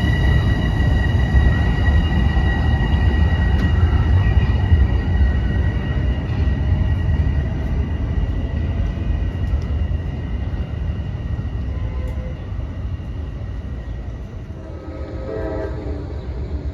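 Metro-North commuter train running through the station: heavy rumble of wheels on rail with a steady high ringing tone over it, both slowly fading as the train moves off. Near the end a short pitched sound rises above the fading rumble.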